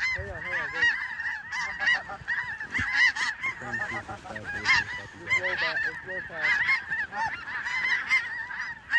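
A large flock of snow geese calling, many short, high, yelping calls overlapping without a break.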